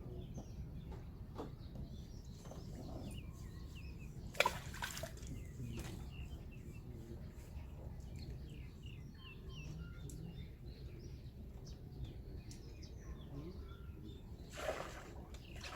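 Small birds chirping and singing over a low steady hum. A sharp splash on the water comes about four seconds in, and a second, longer splash near the end.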